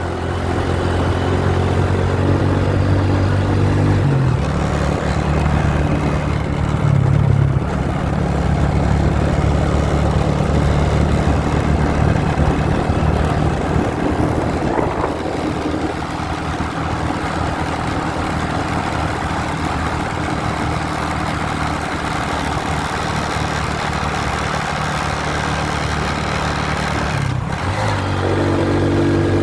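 Motorbike engine running steadily under load on a climbing road. Its note changes about four seconds in and again near the end.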